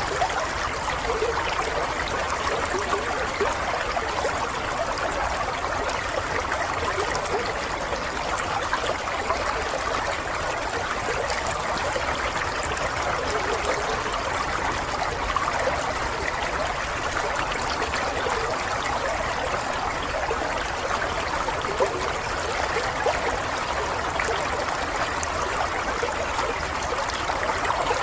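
Running water of a small stream, flowing and trickling steadily.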